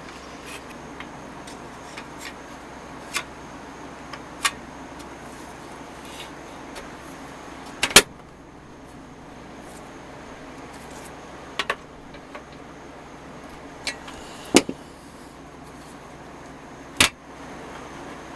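Scattered sharp clicks and knocks of small parts and tools being handled on a workbench, over a steady hiss. The loudest knocks come about halfway through and twice more near the end.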